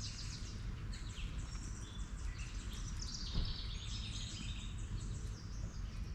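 Several birds chirping and calling in quick short notes, over a steady low rumble.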